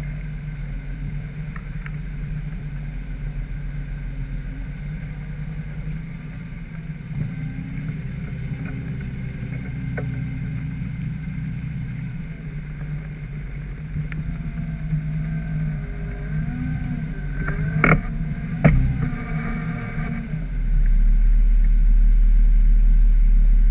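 Jeep engine running steadily while off-roading, with two sharp knocks about 18 seconds in. Near the end a deep low rumble comes in and the sound gets clearly louder.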